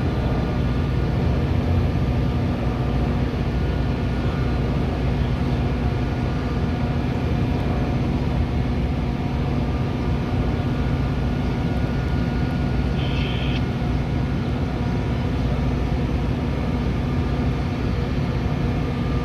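Steady drone of a Metra commuter train, with a constant machinery hum and a brief high chirp about two-thirds of the way through.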